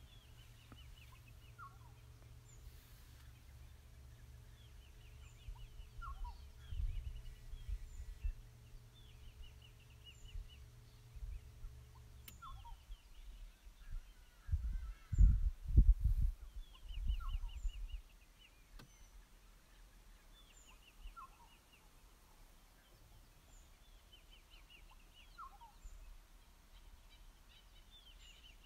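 Wild birds calling over and over: a quick run of high notes about every two seconds, with a lower falling chirp now and then. A low steady rumble cuts out about twelve seconds in, and a few seconds later come several heavy low thuds, the loudest sounds.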